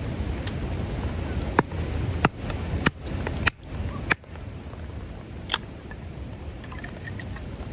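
Steady rain with about half a dozen sharp clicks or taps scattered through the first half.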